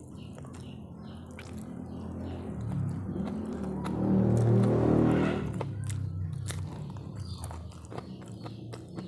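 Close-miked eating: biting and chewing crunchy food, with sharp crunches throughout. A low droning sound swells up and fades away near the middle.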